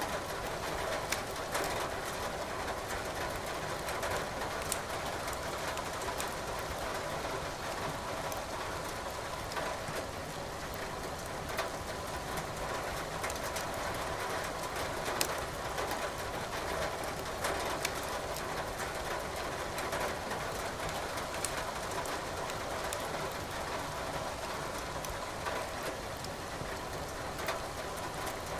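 Wood fire crackling in a fireplace, with scattered sharp pops over a steady hiss of rain.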